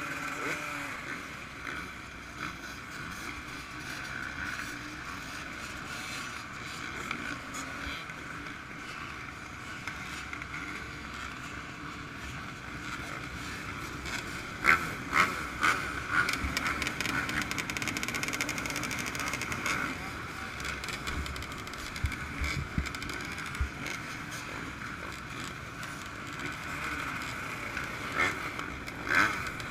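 Motocross bike engines running, heard muffled through a GoPro case, with a louder stretch about halfway through.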